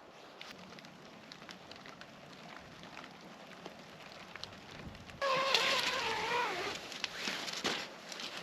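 Steady rain pattering, with many small ticks of drops hitting nearby surfaces. About five seconds in comes a loud drawn-out squeal whose pitch sags slightly, then a few seconds of rough scraping and rustling.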